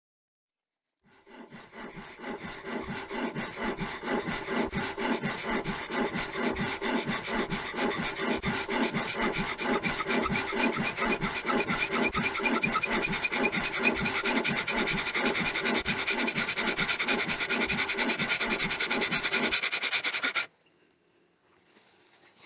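Wood rubbed hard against wood in fast back-and-forth strokes, about four to five a second, with a squeaking tone: making fire by friction. It starts about a second in and stops abruptly near the end.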